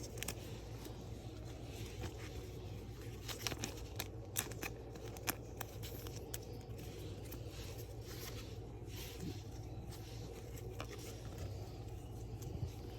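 Trading card packs and cards being handled: scattered small clicks, crinkles and tears of wrappers and card stock, over a steady low hum.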